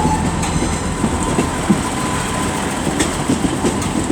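Passenger train rolling slowly through the station with a low rumble, its wheels clicking unevenly over rail joints. A thin steady tone fades out early on.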